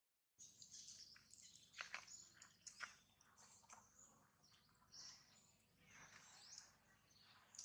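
Very quiet outdoor ambience with faint, high bird chirps scattered through it; the sound drops out completely for a moment at the very start.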